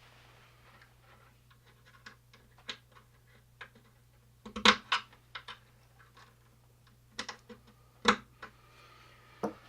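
Scattered small clicks, taps and knocks from hands working on speaker wiring and push-on connectors, with louder knocks about four and a half and eight seconds in, over a low steady hum.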